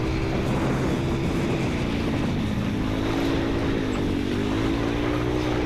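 Motorboat engine running steadily, its pitch rising and falling slightly, over a constant low rumble.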